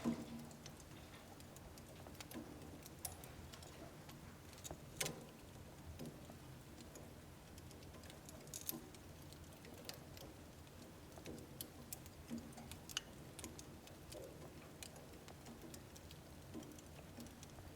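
Wood fire burning in a home wood stove, crackling softly with irregular small pops and snaps. A sharper pop comes right at the start and another about five seconds in.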